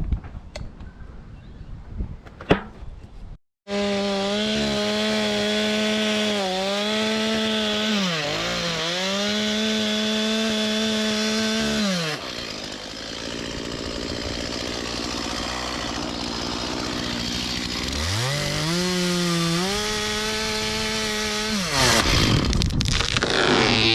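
Two-stroke chainsaw running at high revs, its pitch dipping briefly a few times as it eases off or bogs in the cut. It falls back to a lower, quieter running for several seconds about halfway, then revs up again. Near the end a loud rushing noise takes over.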